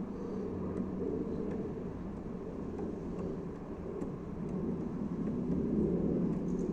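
Steady low rumble of distant motor traffic outdoors, swelling a little near the end, with a few faint small ticks above it.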